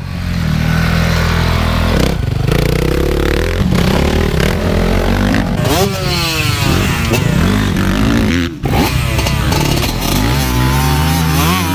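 Motocross bike engines revving hard, pitch climbing and falling repeatedly, with a brief drop in level about two-thirds of the way through.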